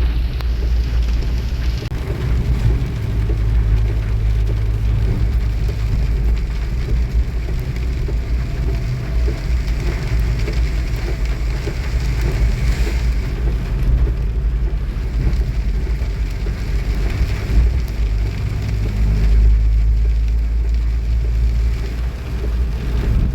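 Steady rain along with a vehicle's continuous low rumble while travelling.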